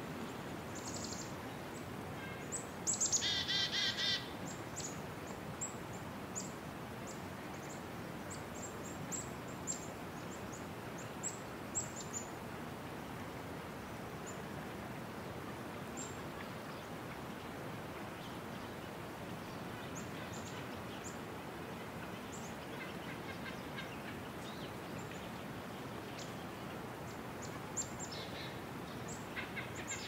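Wild birds calling: many short, high chirps, with a louder, rapidly wavering call about three seconds in that lasts about a second, and fainter calls of the same kind near the end, over steady background noise.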